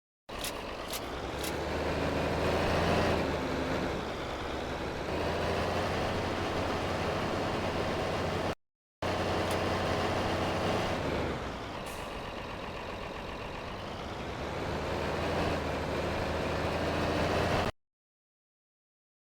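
Tractor engine running, its speed rising and falling, with a few sharp clicks just after it starts. The sound is in two stretches with a brief cut of silence between them.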